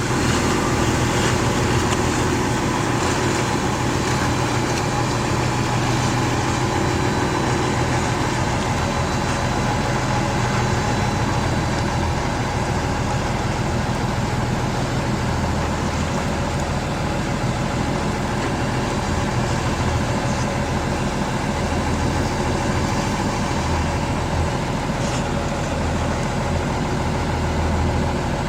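Fishing boat's engine running steadily, a continuous low hum.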